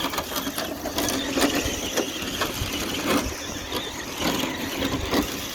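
Radio-controlled 1/10 scale truck driving over rough ground, its drivetrain clicking and rattling irregularly with no steady motor whine.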